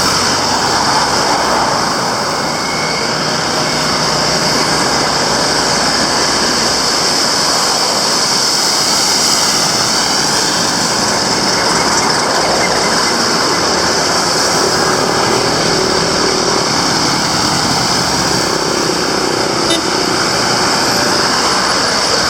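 Steady street traffic noise: motor vehicles passing on the road, a continuous rushing hiss with no clear breaks.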